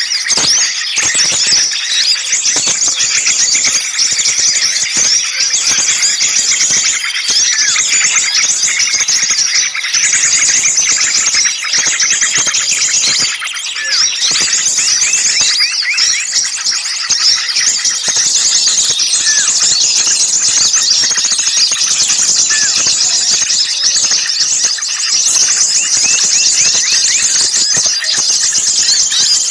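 Bird-lure recording of many small songbirds calling at once: a dense, continuous racket of rapid high chirps, twitters and shrill notes, the agitated 'ribut' chorus that bird trappers play to draw wild birds in.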